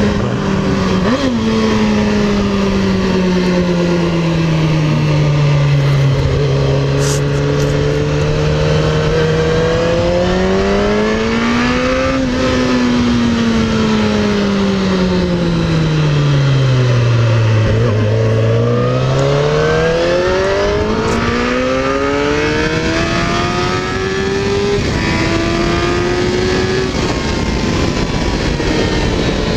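Suzuki GSX-R1000R sport bike's inline-four engine under way, with wind noise. The revs sink slowly, rise around ten seconds in, drop to their lowest a little past halfway, then climb again in a few steps near the end.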